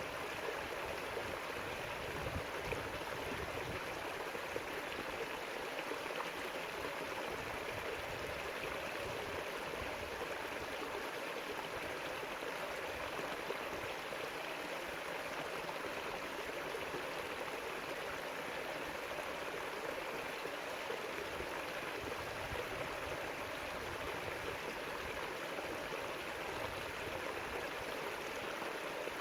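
River water flowing and rushing steadily over rocks, an even splashing sound.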